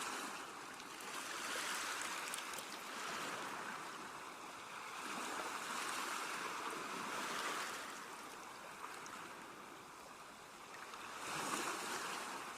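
Sea waves washing in, a soft rushing that swells and ebbs several times, every few seconds.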